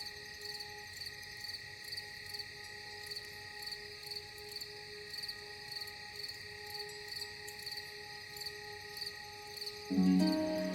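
Crickets chirping in an even rhythm, about two chirps a second, over a soft held ambient drone. Near the end a louder low musical chord comes in.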